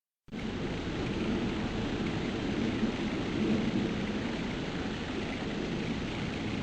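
Steady, even rumble of an airplane passing overhead, heard from the ground. It starts abruptly about a quarter second in.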